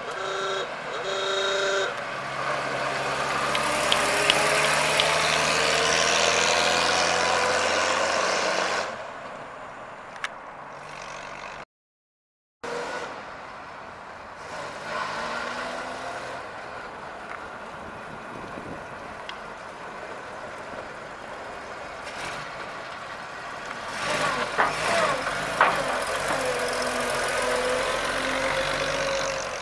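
1928 Studebaker Dictator's engine running as the car drives past, its pitch rising as it accelerates, with two short horn beeps near the start. The engine sound cuts out briefly partway through, then runs on with a few sharp clicks near the end.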